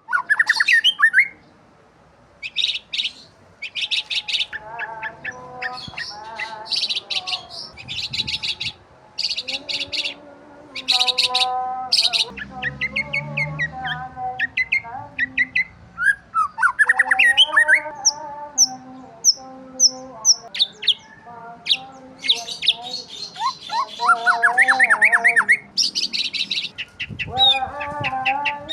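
Several birds chirping and calling together: rapid trains of high chirps come in short bursts, mixed with lower whistled calls and a few quickly rising sweeps.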